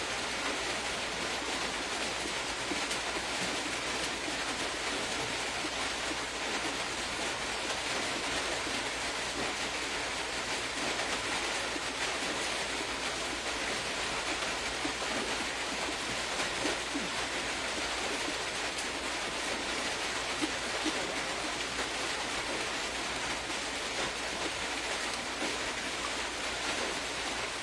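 Steady, even hiss of background noise, with a few faint soft ticks and no speech.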